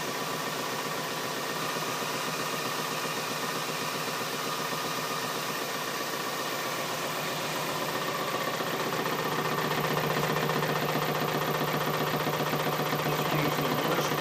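Twin motors of an RC Airbus A330 model running at low throttle just above idle: a steady whirring hiss with a fast pulsing rattle, growing a little louder with a lower hum about nine seconds in. The motors shake heavily as they run, which the owner takes as a sign they are faulty.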